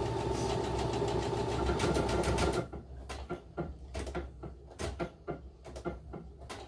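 Baby Lock Soprano computerized sewing machine stitching a decorative bead pattern. Its motor runs steadily for about two and a half seconds, then gives way to a run of irregular clicks and knocks. The owner was unsure whether this sound was normal, and it came with each bigger bead of the pattern.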